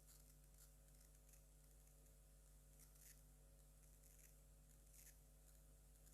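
Near silence: a faint steady hum and hiss with scattered soft clicks.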